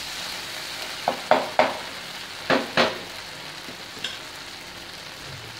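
Onion, garlic and ginger paste frying in hot oil in a pan, with a steady sizzle. Five quick scrapes of a spatula against the pan come between about one and three seconds in.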